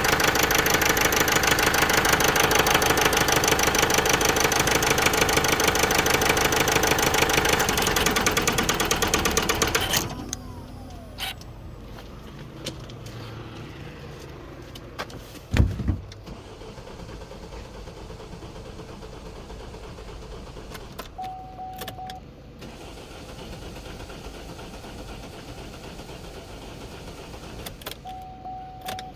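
Vauxhall Meriva 1.6 CDTI four-cylinder diesel engine running rough with a misfire, the sign of its P0016 crankshaft–camshaft position correlation fault, then switched off about ten seconds in and running down. Afterwards a single low thud, then two short electronic beeps several seconds apart.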